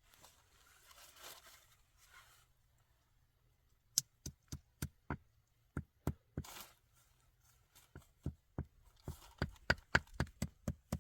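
A soft rustle, then from about four seconds in a steady run of sharp knocks, roughly two or three a second, like repeated blows of a tool.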